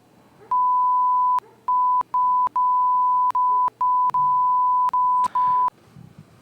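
A steady, high censor-style bleep tone, switched on and off in about nine stretches of uneven length, with a click at each start and stop.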